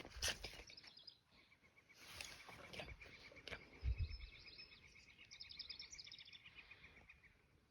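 A bird singing faintly: a long run of rapid, evenly repeated chirps on one pitch, with higher notes over it at times. A few scattered knocks and rustles of movement come in between, the loudest about four seconds in.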